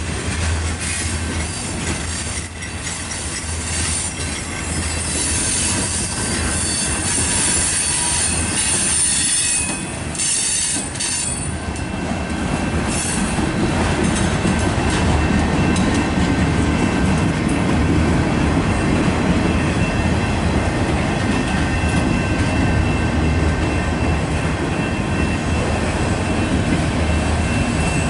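Freight cars of a manifest train rolling slowly past: hopper cars, then autorack cars, steel wheels rumbling on the rails with a thin, steady wheel squeal. It grows a little louder about halfway through.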